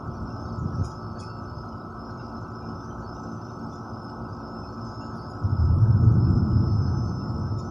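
Distant thunder: a low rumble breaks in about five seconds in, swells and fades over about two seconds. Crickets chirp steadily throughout.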